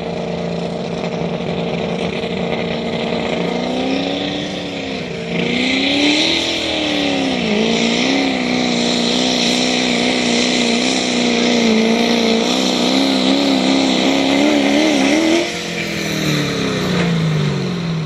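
Engine of a competition pulling truck or tractor making a pull: it runs steady, then revs up about four seconds in, dips and wavers, and holds at high revs under load for about ten seconds. It then backs off and winds down near the end.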